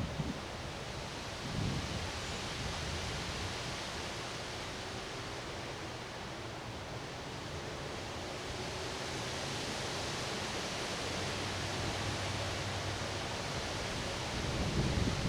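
Strong wind rushing steadily, with low gusts buffeting the microphone at the very start and again near the end.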